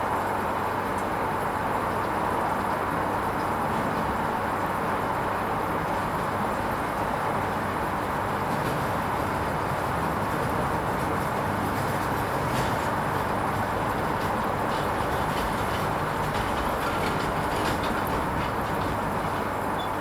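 Hoover Vision HVP16 washing machine running a Silks 30 wash programme: a steady noise with a low hum underneath and a few faint ticks in the second half.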